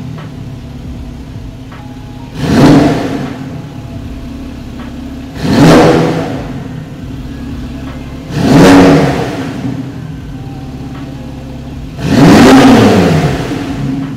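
Porsche 911 Carrera GTS (991.2) twin-turbo flat-six idling at a standstill, with four throttle blips through its sports exhaust, each rising and falling in pitch in about a second, the last held a little longer.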